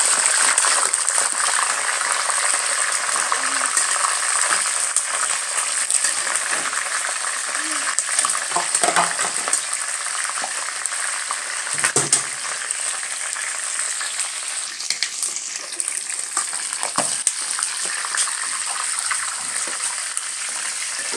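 Pieces of kienyeji chicken deep frying in hot oil, crackling and sizzling steadily. A few sharp knocks come through, spread across the middle of the frying.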